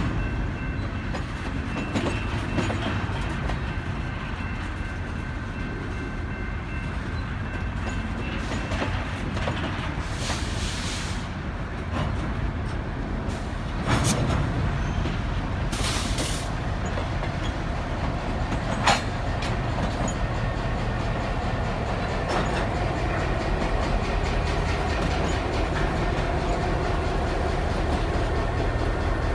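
BNSF diesel locomotives running on yard track: a steady low engine rumble, with a couple of sharp metallic clanks.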